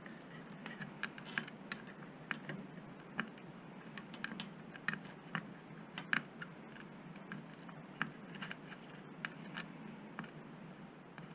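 Irregular light clicks and taps, roughly one or two a second, from small tools and parts being handled on a workbench, over a faint steady low hum.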